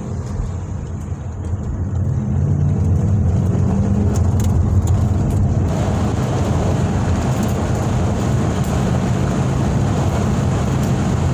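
Ford Mustang GT's 5.0 V8 engine heard from inside the cabin, growing louder as the car picks up speed in the first few seconds. From about six seconds in, a steady rush of wind and road noise rises over the running engine.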